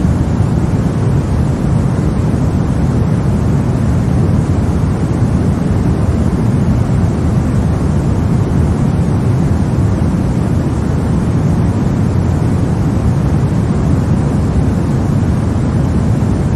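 Steady, unbroken noise used as a baby-sleep sound, weighted toward the low end so it sounds like a deep, even rumbling hiss rather than a bright one.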